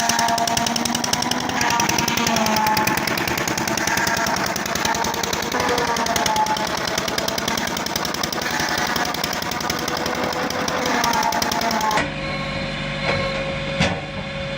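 Sisal decorticating machine running, its beaters hammering the leaves in a dense, very fast clatter. About twelve seconds in it cuts off abruptly, and a steadier machine hum with a single click takes over.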